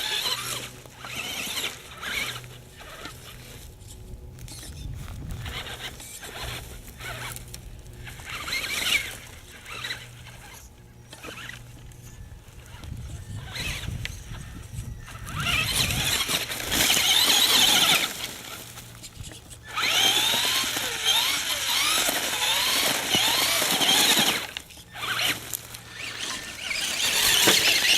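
Radio-controlled truck's electric motor whining in bursts as it is driven, its pitch rising and falling with the throttle. It is loudest in two long runs past the middle and one near the end, over a steady low hum.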